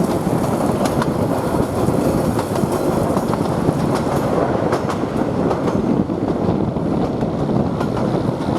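2000 class diesel rail motor running along the track: a steady rumble of wheels and running gear on the rails, with scattered sharp clicks as the wheels pass over rail joints.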